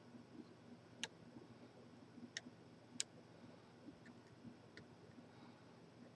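Faint, scattered sharp metallic clicks of lock picks working inside a large Corbin padlock, a few seconds apart over near silence.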